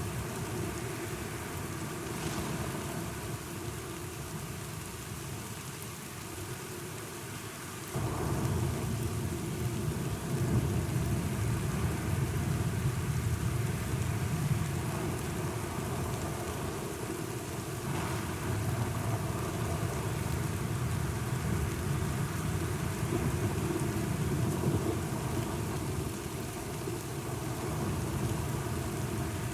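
Steady rain with a low rumble of thunder. The rumble and rain grow suddenly louder and deeper about a quarter of the way through, then keep rolling.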